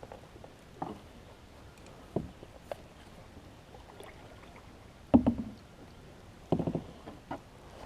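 Scattered knocks and clunks on a small boat's hull: a few light taps early on, a loud clunk about five seconds in, then a quick run of several knocks a second and a half later.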